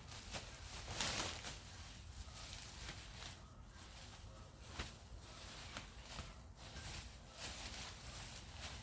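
Faint, irregular rustling and scuffing in yard vegetation, with a louder rustle about a second in.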